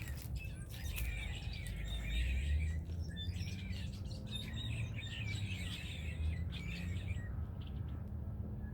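A large flock of small birds chirping and calling all at once in dense overlapping chatter, which thins out about seven seconds in. A steady low rumble runs underneath.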